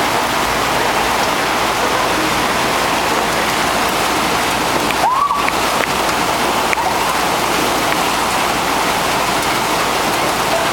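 Heavy rain pouring down in a steady hiss, with a brief rising squeak about five seconds in.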